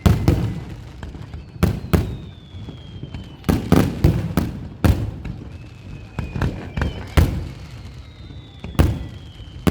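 Aerial fireworks shells bursting one after another, about a dozen sharp bangs at uneven intervals, with thin high whistles slowly falling in pitch between them.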